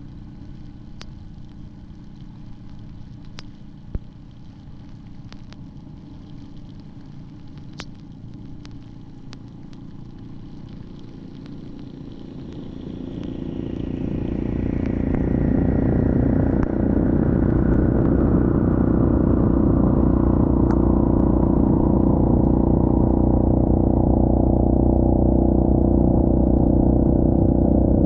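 Yamaha Grizzly 700 ATV's single-cylinder engine running low and steady with a few sharp clicks, then about halfway through growing much louder over a few seconds and holding a loud, steady drone as the ATV gets under way.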